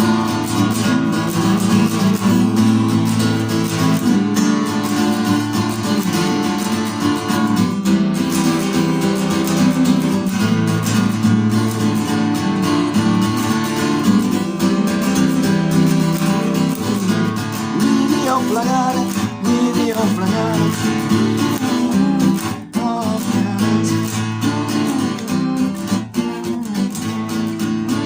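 Music: acoustic guitars strumming a steady rhythm in an instrumental passage, with a wavering higher melody line coming in about two-thirds of the way through.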